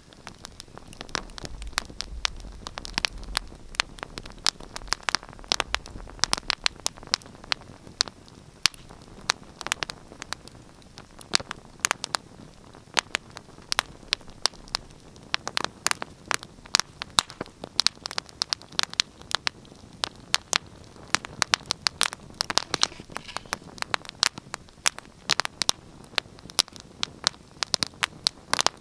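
Wood fire crackling and popping in a fireplace: many irregular sharp pops and snaps over a soft steady hiss, with a faint low rumble in the first few seconds.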